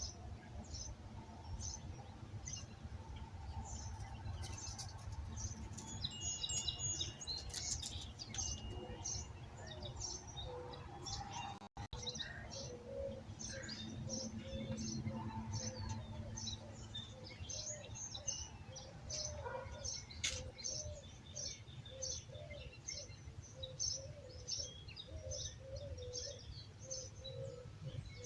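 Many birds chirping and singing in a dawn chorus: dense short high chirps throughout, joined in the second half by a bird repeating a lower note about twice a second, over a steady low rumble. The sound cuts out for an instant a little before halfway.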